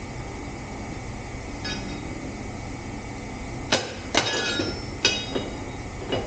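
Metal clanking: about five sharp metallic clinks with short ringing in the second half, as metal parts or tools knock against each other during work on the skid steer wheel. A faint steady hum runs underneath.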